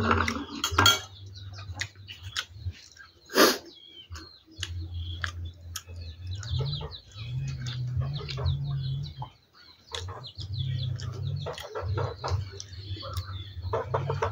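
Birds chirping repeatedly in short calls, with a few sharp knocks and an on-and-off low hum underneath.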